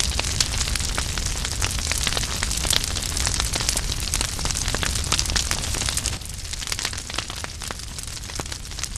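Fire crackling, with many quick sharp pops over a steady hiss and low rumble. It becomes somewhat quieter about six seconds in.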